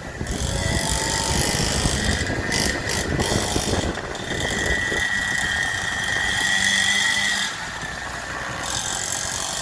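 Small dirt-bike engine running steadily under way, with a high whine over a rough rumble. The whine grows stronger for a couple of seconds past the middle, then eases off about three-quarters of the way through.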